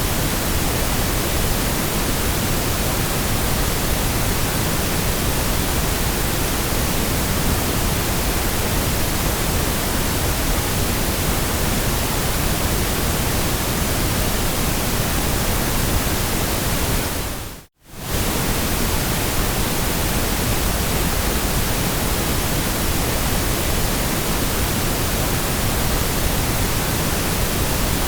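Steady, even white noise hiss for soothing a baby to sleep. It drops out for a split second about eighteen seconds in, then resumes unchanged.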